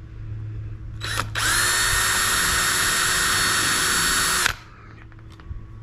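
Power drill spinning at a steady speed for about three seconds after a short blip of the trigger, then stopping abruptly as the trigger is released, as it drills or drives screws into the workbench lumber.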